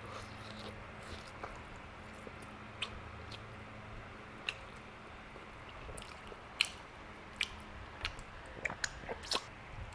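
A person eating barbecued pork ribs up close: chewing the soft meat off the bone with small wet mouth clicks and smacks. The clicks are sparse at first and come more often in the last few seconds.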